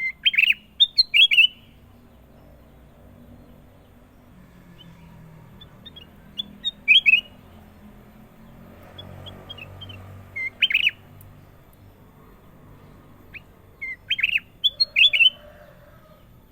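A kutilang emas bulbul singing short, quick phrases of clear whistled notes, four bursts with pauses of a few seconds between them.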